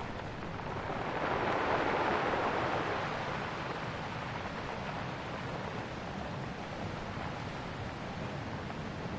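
Ocean waves breaking on a shore: one wave swells and washes in about a second in, then eases back to a steady rush of surf.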